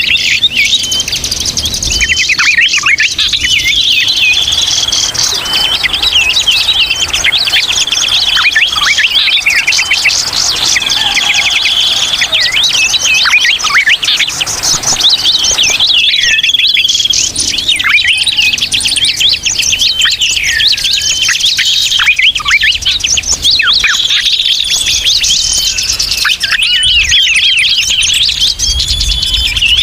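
A crowd of birds chattering noisily, many quick chirps and trills overlapping without a break.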